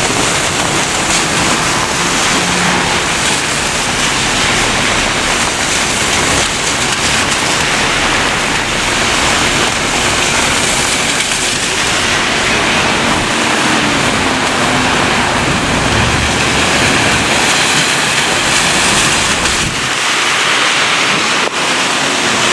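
Steady hiss of thunderstorm rain falling.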